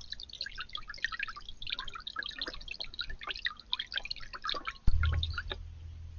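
Water dripping and splashing in quick, irregular drops, as from a garden fountain or bird bath. A sudden loud thump comes about five seconds in, after which the dripping stops and a low hum remains.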